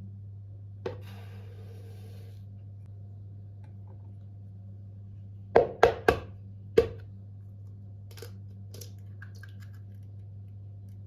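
Kitchen items being handled on a counter: a click with a brief rustle about a second in, then four sharp knocks of hard objects close together around six seconds in, and a few lighter taps later. A low steady hum runs underneath.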